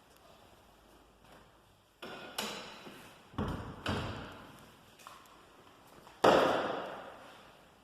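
A series of sudden knocks and thuds, each dying away with an echo: two close together about two seconds in, two more about a second later, then the loudest, a heavy thud with a long fading tail, near the end.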